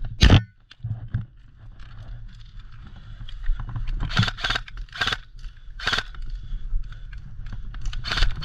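Footsteps crunching and scraping through dry brush or leaf litter, irregularly spaced, over a steady low rumble of wind or handling on the microphone.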